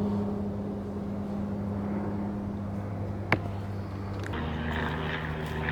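Steady engine drone that drops to a lower pitch about four seconds in, with a single sharp click a little after three seconds.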